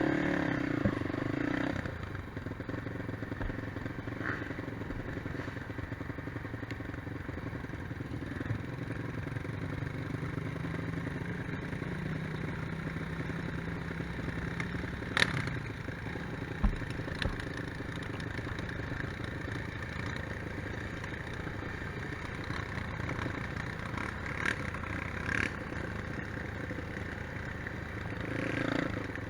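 Quad bike (ATV) engine running on an off-road trail, its pitch rising a little partway through, with a couple of sharp knocks and some clatter about halfway through.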